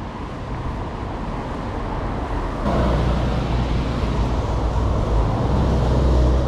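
City street traffic on wet roads: a steady wash of road noise with a low engine rumble, which grows louder and steps up sharply about a third of the way in.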